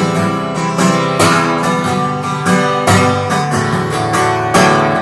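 Acoustic guitar strummed in a steady rhythm, ringing chords with no singing, an instrumental passage between sung verses of a song.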